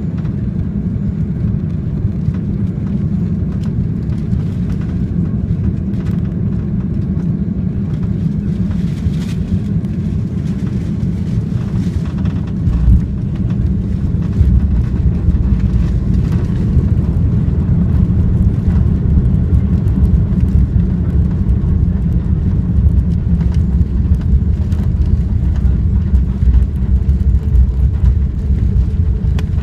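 Airliner cabin noise during landing: a steady low rumble of engines and airflow, then a thump about 13 seconds in, after which a heavier, louder low rumble sets in, as of the main wheels touching down and rolling on the runway.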